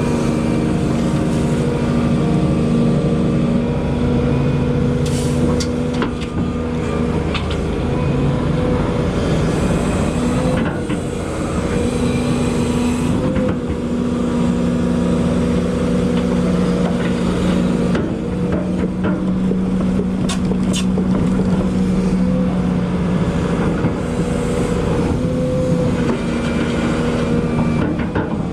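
Volvo EC220E excavator's diesel engine running under load, its steady hum shifting pitch every few seconds as the hydraulics work. A few sharp knocks and clicks come in now and then.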